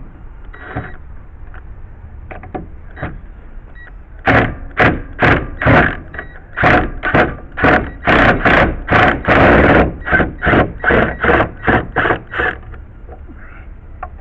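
Power drill-driver backing screws out of deck boards, run in short bursts about twice a second with a longer run in the middle. A few faint clicks come before it starts, about four seconds in.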